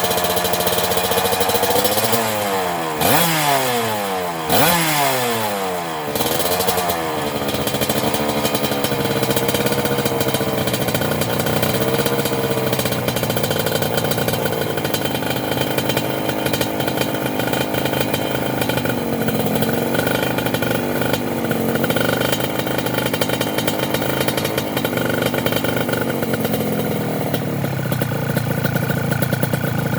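Suzuki TS125's two-stroke single-cylinder engine running through a full stainless-steel aftermarket exhaust, revved up sharply twice about three and four and a half seconds in, then running near idle with small rises and falls in revs.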